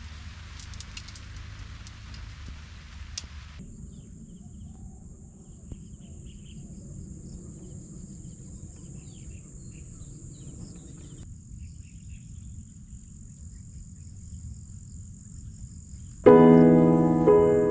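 Outdoor ambience: a few light clicks at first, then a steady high-pitched insect drone with faint bird chirps over it. Piano music starts loudly near the end.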